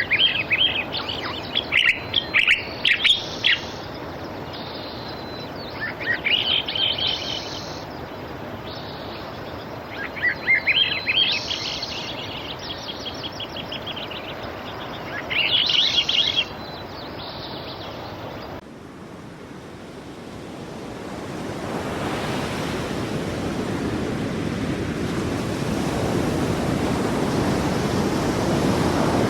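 A songbird sings in short, repeated phrases of chirps and trills, four times a few seconds apart, over a steady hiss. About two-thirds of the way in, the sound cuts to sea surf, a wash of waves that swells steadily louder.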